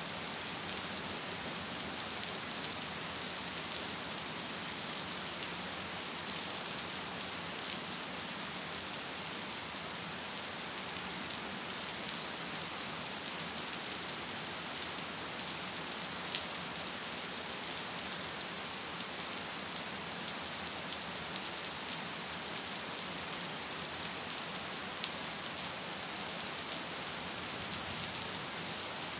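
Gentle rain falling steadily: an even hiss with scattered sharper drop ticks.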